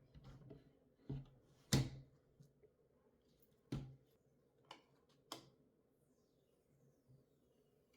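Handling of PC parts and tools during assembly: several separate clicks and knocks, the loudest about two seconds in, over a faint steady hum.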